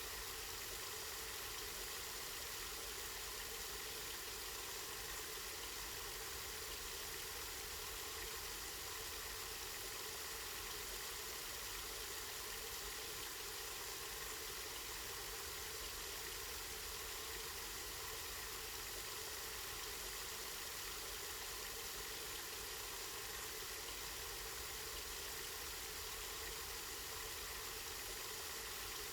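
Spring water running and splashing steadily, an even, unbroken rush of water.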